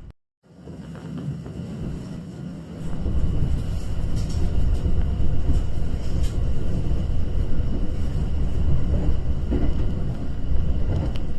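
Train running, a steady low rumble that grows louder about three seconds in.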